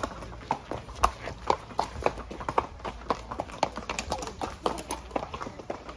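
Horses' hooves clip-clopping along a path, an uneven run of several hoofbeats a second.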